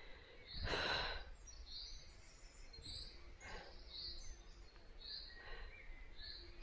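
Small birds chirping, short high calls about once a second, with a person's breath loud about a second in and softer breaths later.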